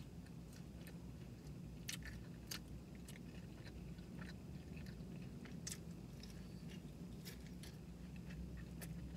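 Close chewing of crispy battered cod and French fries, with scattered small crunchy clicks over a low steady hum.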